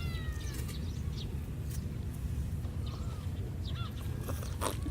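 A few short animal calls, each with a bend in pitch, heard at the start and again about three and a half seconds in, over a steady low rumble.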